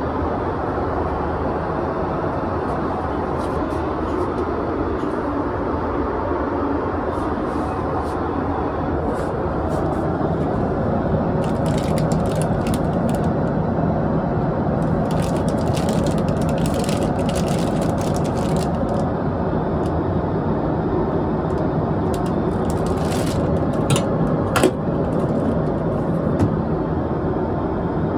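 Steady cabin noise inside a Boeing 777-300ER airliner: an even, deep rush of engine and air noise. Faint clicks sound now and then, and a short knock comes about 25 seconds in.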